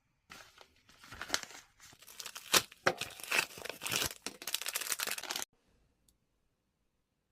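Packaging being crinkled and torn open by hand, a dense crackle with sharp snaps that lasts about five seconds and stops suddenly.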